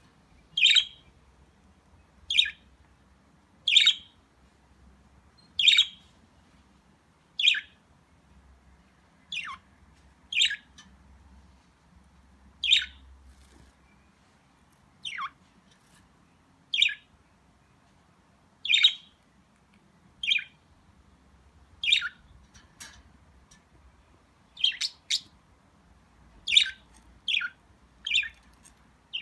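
Pet budgerigars chirping: short, sharp single calls, each a quick falling sweep, one every second or two, coming closer together near the end.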